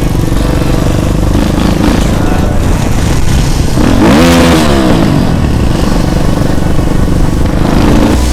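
Motorcycle engines running, with one engine's pitch rising and falling again about four seconds in.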